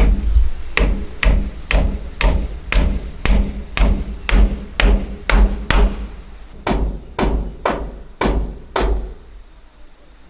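Hammer blows on wood in a steady rhythm, about two a second, some with a faint high metallic ring. The blows stop about nine seconds in.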